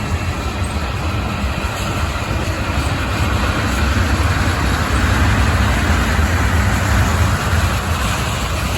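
Freight train rolling past: a steady rumble of wheels on the rails with a noisy rushing, swelling a little louder midway.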